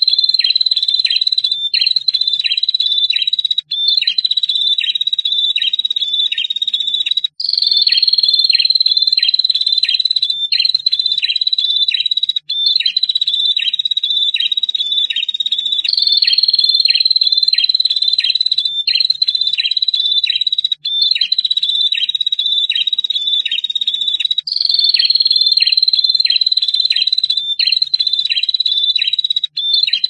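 Prinia (prenjak) song: a long, high, steady trill with sharp notes about two to three a second over it. It comes in phrases of about four seconds, separated by brief breaks.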